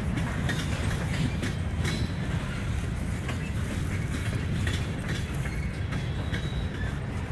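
Mixed freight train cars, covered hoppers, boxcars and a tank car, rolling past: a steady low rumble of steel wheels on rail, with scattered clicks from the rail joints and couplers.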